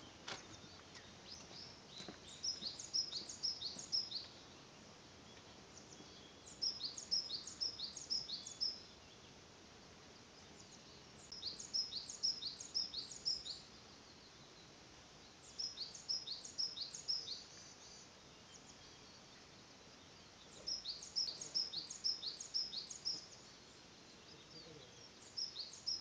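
A songbird singing the same short phrase about every four to five seconds, six times: each phrase is a quick run of high, falling notes lasting about two seconds. Between the phrases there is a faint, steady forest background.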